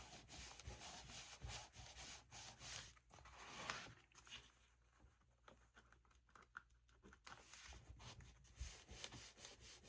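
Faint rubbing and rustling of paper, with scattered short scrapes, as glue is spread and the paper strip is pressed down.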